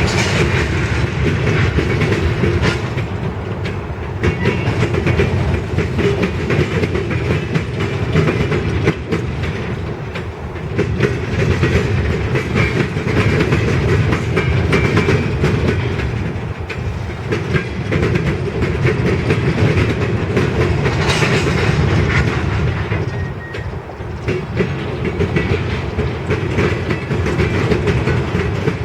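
Freight train cars rolling past, steel wheels clattering over rail joints with a steady rumble that swells and dips a little in loudness.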